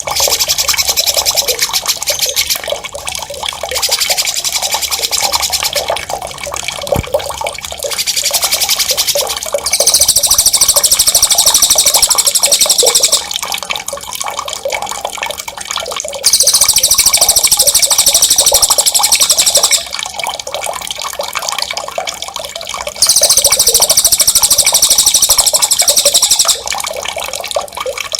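Songbird 'ngerol' masteran song: loud, very rapid, high-pitched rolling trills in repeated bursts of about three seconds each, over a steady sound of running, splashing water.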